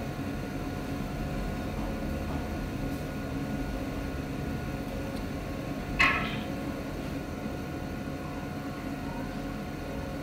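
A steady electrical or mechanical hum with faint steady tones in it, broken by one sharp click about six seconds in that rings briefly.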